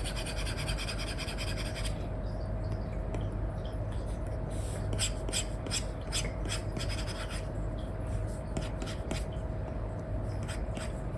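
Stylus nib scratching across a paper-like matte screen film on a tablet. It starts as a quick run of dense back-and-forth strokes, thins out, then comes a cluster of short separate strokes about halfway through and a few more near the end, over a faint steady hum.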